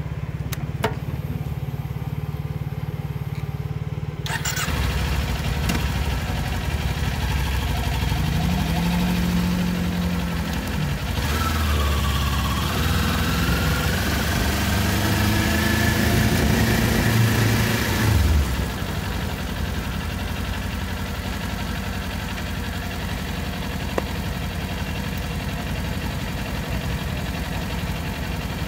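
Kawasaki Ninja 400's parallel-twin engine idling, then pulling away with rising revs twice, about 8 and 12 seconds in, and wind noise building with speed. The revs and wind drop off sharply about 18 seconds in, and the engine settles back to a steady idle in neutral.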